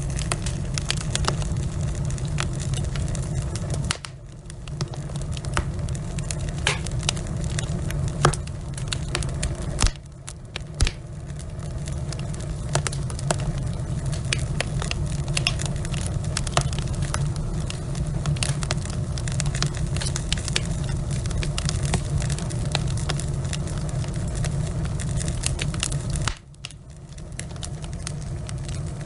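Log fire burning in a fireplace: a steady low rumble with frequent sharp pops and crackles. The rumble drops away briefly three times.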